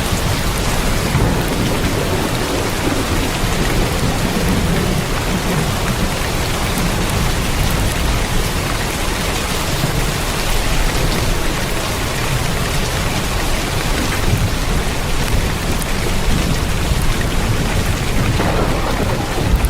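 Heavy rain falling steadily on a tin roof, a dense even patter with a low rumble underneath.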